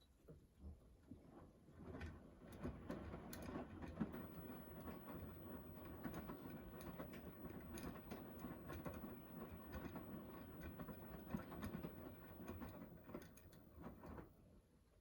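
Beko washing machine running a wash: faint, irregular patter and clicking from the turning drum, fading away near the end.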